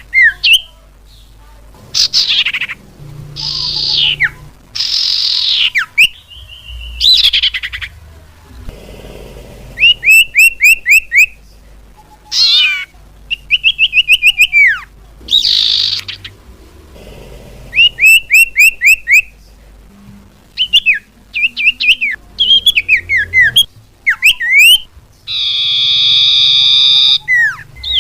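Recorded common iora (cipoh) calls played as a bird-trapping lure. Clear whistled notes alternate with rapid runs of short falling notes, and a long harsh buzzy call comes near the end.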